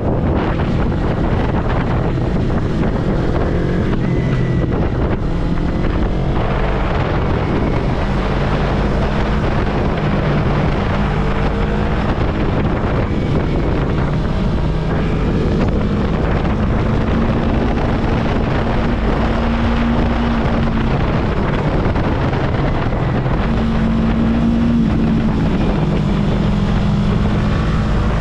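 Yamaha YZF-R3 parallel-twin engine running at riding speed, its pitch shifting up and down, with heavy wind rush over the microphone.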